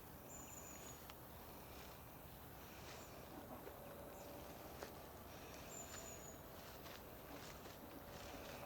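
Quiet woodland ambience with two thin, high, slightly falling bird calls, one about a second in and another around six seconds in, and a few faint scattered ticks.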